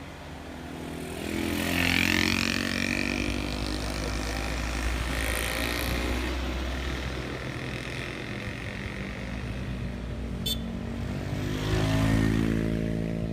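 Heavy vehicles' engines labouring up a steep climb, a low steady drone with two louder passes, one about two seconds in and another near the end, where the pitch sweeps as each goes by.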